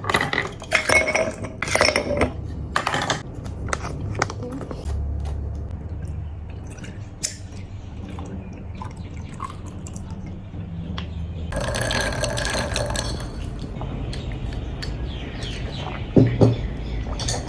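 Ice balls clinking into a glass, then liquid poured over the ice.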